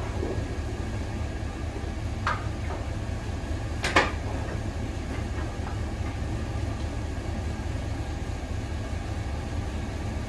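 Truck engine idling with a steady low rumble, while plow mounting hardware gives two sharp metal clinks, the louder about four seconds in.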